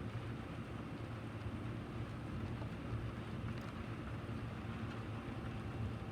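Steady rain falling: a continuous hiss with a strong low rumble underneath.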